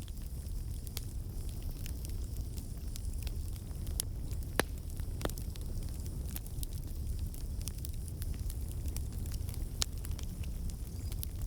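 Campfire burning, with a steady low rumble under scattered crackles and a few sharper pops.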